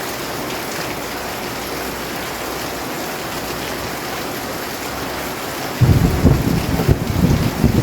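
Steady heavy rain, then a sudden clap of thunder rolling in about six seconds in, a loud low rumble that goes on to the end.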